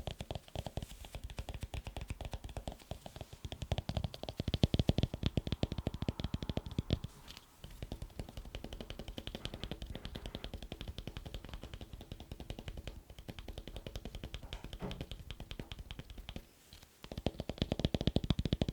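Fast fingertip tapping on hard objects: a dense run of quick clicks and knocks, stopping briefly twice, with the heaviest, fullest taps about four seconds in and again near the end.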